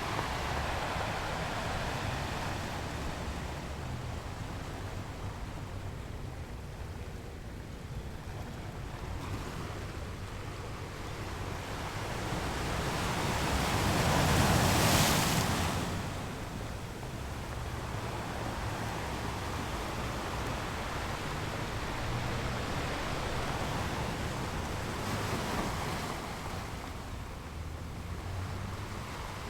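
Ocean waves rolling and breaking on a shore, with a steady wash of surf. One wave builds to a loud crash about halfway through, and smaller ones break near the start and towards the end.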